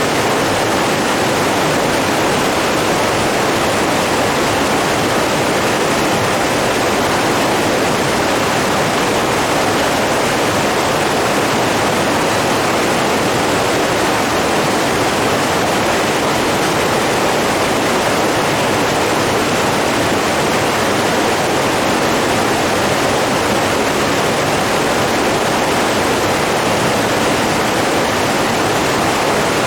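Running water, a stream or small falls, rushing in a steady, even hiss that does not change.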